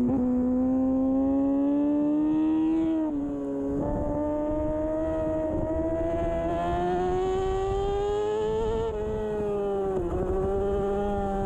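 2013 Kawasaki Ninja 636's inline-four engine running at high revs, its pitch climbing slowly, with short drops in revs about three seconds in and again near the end, over wind rush.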